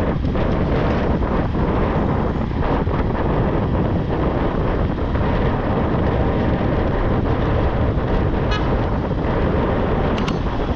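Wind buffeting the microphone of a moving bike, over the steady rumble of town road traffic. A short high-pitched tone sounds about eight and a half seconds in.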